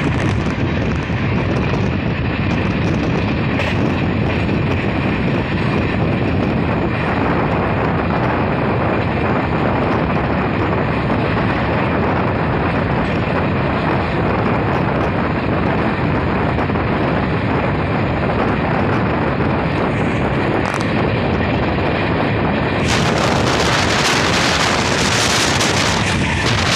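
Kaifiyat Superfast Express passenger coach running at speed, heard from an open window: a steady, loud rush of wheels on the rails and air streaming past. The rush turns brighter and hissier for the last few seconds.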